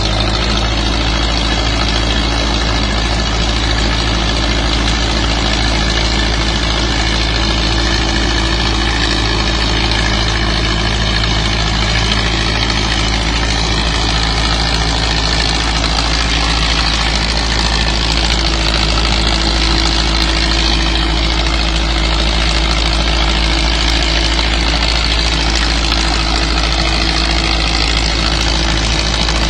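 Tractor engine running steadily at a constant speed, a low hum that neither revs up nor slows down.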